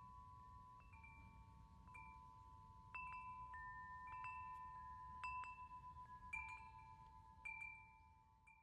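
Wind chimes ringing faintly: metal tones struck at irregular intervals, about one a second, each ringing on and overlapping the next, dying away near the end.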